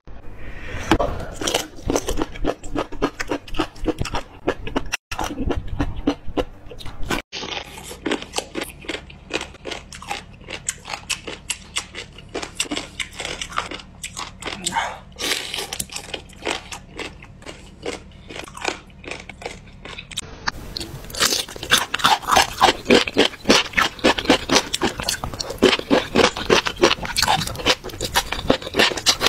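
Jellyfish being bitten and chewed close to the microphone: dense, crunchy crackling. There are a couple of abrupt breaks early on, and the crunching gets louder from about two-thirds of the way through.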